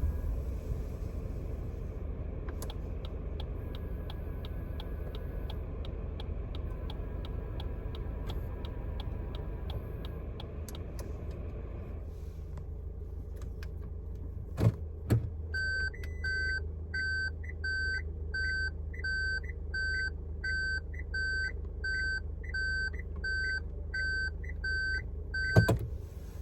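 Suzuki Wagon R Smile's small three-cylinder petrol engine idling steadily, with a fast even ticking over it for the first half. After two clunks, a warning chime beeps steadily, about one and a half beeps a second, for about ten seconds, then stops with another clunk.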